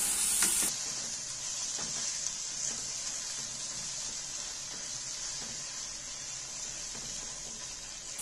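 Onion-tomato masala with spice powders sizzling in hot oil in a non-stick kadhai as it is stirred with a silicone spatula. A steady frying hiss, a little quieter after the first second.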